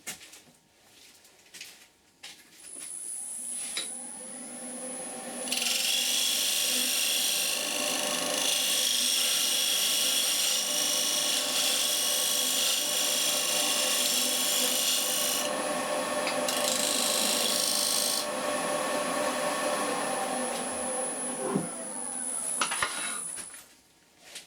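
An electric power tool runs up with a thin high whine, then grinds wood off a workpiece in two long abrasive passes with a short break between, and runs down near the end.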